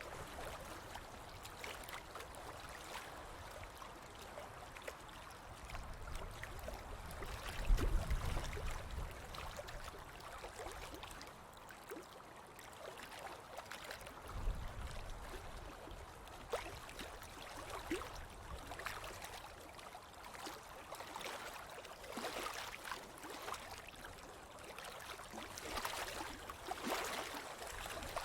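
Ocean waves washing onto a beach: a steady hiss of surf with fizzing, crackling foam, and two low rumbles, the louder about eight seconds in and another about six seconds later.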